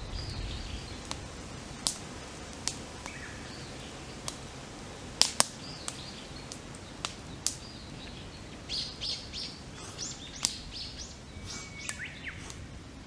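Wood campfire crackling, with sharp pops every second or two and a louder double pop about five seconds in. Small birds chirp around it, in a cluster of quick calls a little past the middle.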